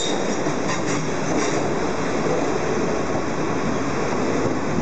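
Towed Izu-Hakone Railway 5000 series electric train cars rolling past on their wheels, a steady rumble and rattle of wheels on rail, with a few brief high squeals in the first second and a half.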